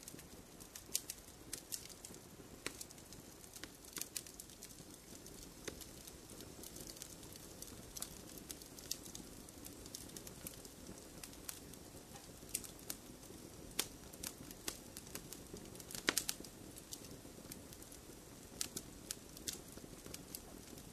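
Wood fire burning in a fireplace: a faint low rushing of flames with irregular sharp crackles and pops, a louder cluster of pops about sixteen seconds in.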